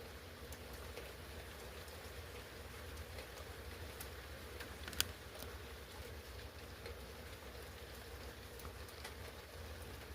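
Steady rain falling during a thunderstorm, with scattered drop ticks and one sharper tick about five seconds in.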